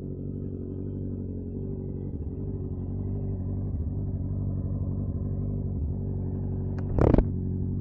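Honda CB650R inline-four motorcycle engine idling steadily, with one short loud knock or blip about seven seconds in.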